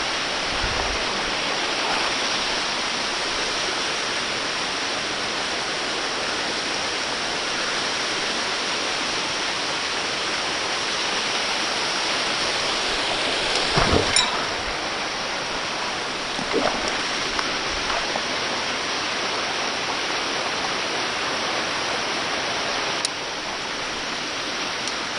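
Waterfall rushing steadily, with a couple of brief knocks about halfway through.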